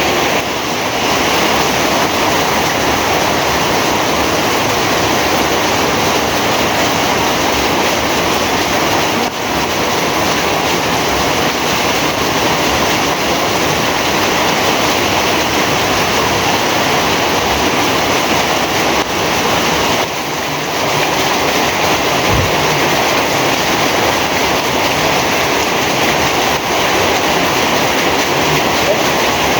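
Heavy rain falling steadily, a loud, even hiss of downpour.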